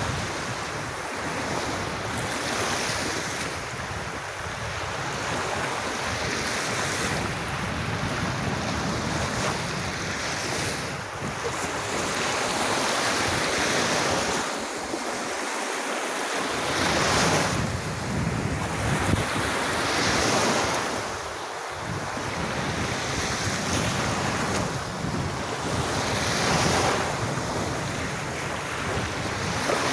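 Surf breaking and washing onto a beach in slow repeating swells, each wave rising and falling over a few seconds, with wind on the microphone.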